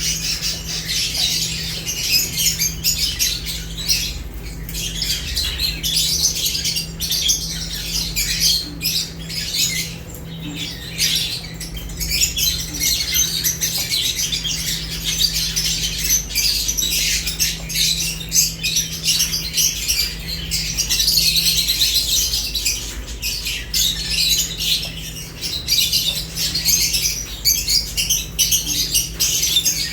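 A group of lovebirds chattering continuously, a dense stream of shrill chirps and squawks.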